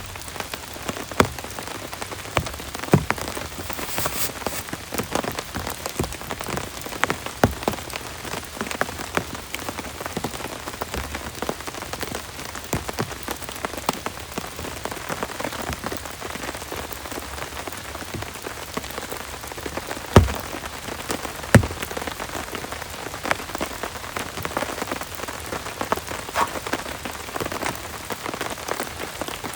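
Heavy rain falling steadily, with many individual heavy drops striking close by; two drops stand out, about twenty and twenty-one seconds in.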